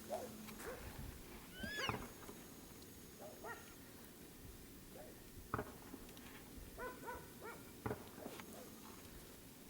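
Faint distant gunshots: a few sharp single cracks several seconds apart, from a neighbour target shooting. Short animal calls and chirps come in between.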